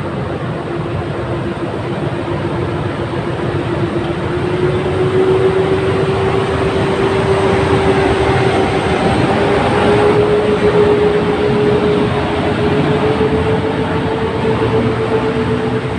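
Polish PKP EP09 electric locomotive pulling a passenger train away from a station. Wheels rumble on the rails under a single hum that rises slowly in pitch as the train gathers speed. It grows loudest in the middle as the train passes.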